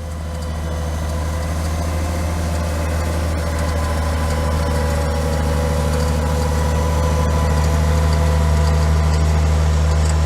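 Tractor engine idling steadily with a low, even hum; it swells slightly and then holds.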